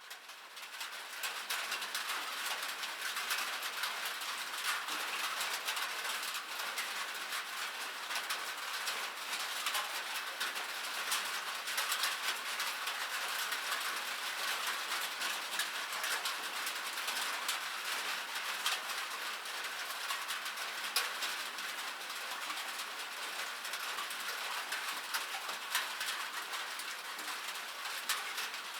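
Rain falling on a metal surface: a dense, steady patter of countless small drop ticks over an even hiss, fading in over the first second or two.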